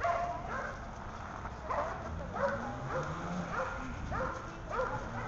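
A dog barking repeatedly, a short bark about every half second to a second.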